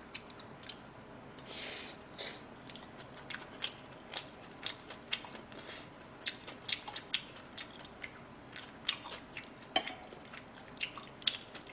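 A person chewing a mouthful of fried rice close to the microphone: soft, wet mouth clicks and smacks at an irregular pace.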